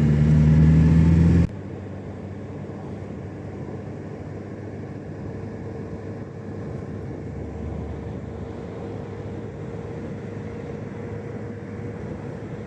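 Steady engine and road noise inside a moving car. About a second and a half in, it drops abruptly to a quieter, steady rumble.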